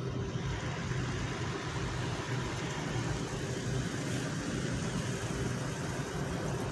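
Steady mechanical hum of a running motor, unchanging, with a constant hiss over it.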